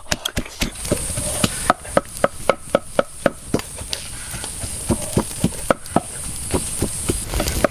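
A knife chopping on a wooden board: a run of sharp knocks, about three to four a second, then a second run a few seconds later, under a steady high hiss.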